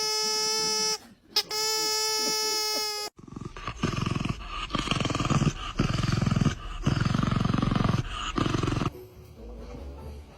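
A steady high pitched tone for about three seconds, broken once, then an animal growling in a series of long rasping bursts.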